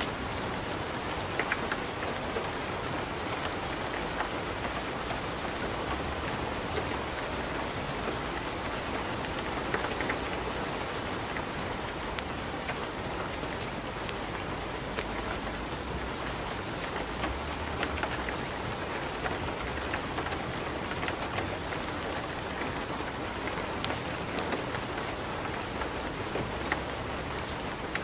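Wood fire crackling in a fireplace: a steady hiss with many scattered sharp pops and snaps.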